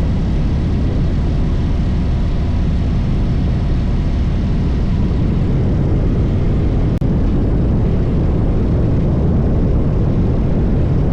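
Loud, steady low rumble of wind buffeting the microphone, with a brief dropout about seven seconds in.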